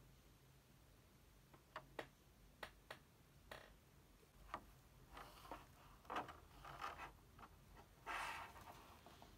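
Faint handling sounds: a few light taps and clicks, then soft rustling, the longest near the end.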